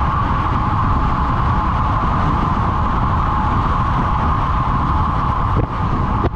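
Steady rush of wind and rolling noise from a road bike at speed, picked up by a microphone riding along, with a constant hum running through it.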